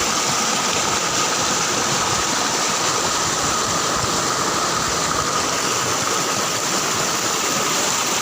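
Steady rush of water from a rain-swollen stream and waterfall in full flow, an even noise that holds level throughout.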